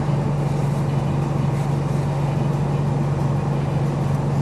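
Four-wheel drive's engine idling steadily: a constant low hum under an even hiss.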